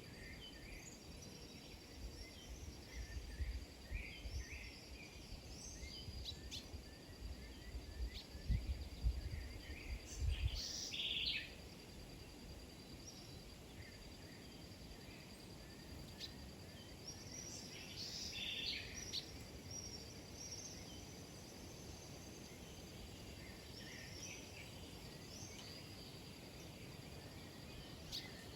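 Small birds chirping in scattered short flurries, the loudest about ten seconds in and again just past halfway. A faint steady high tone runs underneath, and a low rumble comes and goes in the first third.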